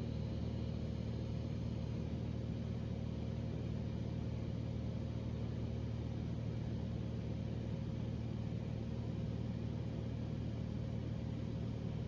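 Cessna 182's piston engine and propeller droning steadily at cruise, heard inside the cabin as a constant low hum with no change in pitch.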